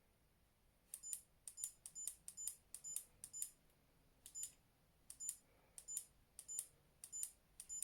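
Digital torque wrench giving a dozen or so short, high-pitched beeps at uneven intervals, starting about a second in, while being pulled toward a 100 Nm setting beyond its 85 Nm limit. The owner takes the beeping as an over-range error.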